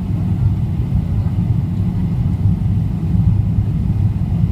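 Steady low rumble of a Boeing 777-300ER's engines and airflow heard from inside the passenger cabin.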